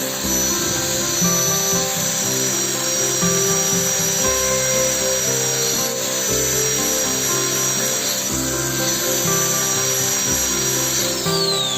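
Background music over the steady high whine of a high-speed rotary power tool cutting or shaping PVC. Near the end the whine falls away in pitch as the tool is switched off and spins down.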